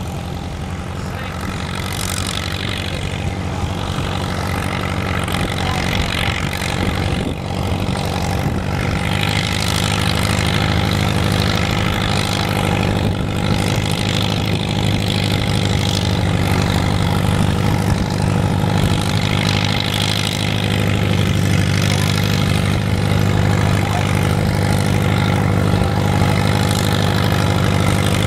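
Tractor engine running steadily at an even pitch, growing slowly louder.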